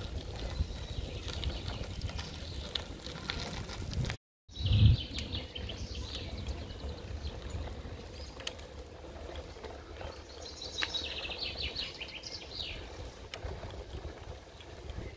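Songbirds singing, with several trilling phrases of rapid repeated notes, over a constant low rumble on the microphone. Just after four seconds the sound drops out briefly, followed by a short loud thump.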